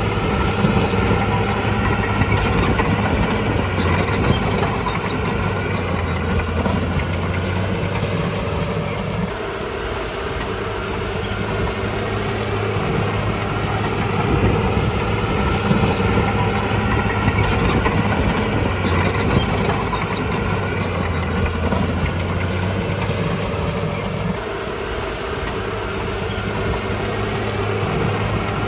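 Diesel engine of a Komatsu D51PX crawler bulldozer running steadily at working revs, easing off for a few seconds twice.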